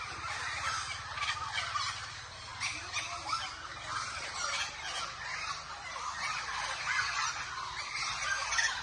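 A large flock of crows calling all at once: a dense, continuous chatter of many overlapping calls and clicking notes.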